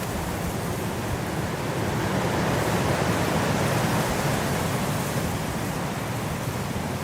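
Blizzard wind blowing steadily as a dense rush of noise, with a gust swelling about halfway through and easing off again.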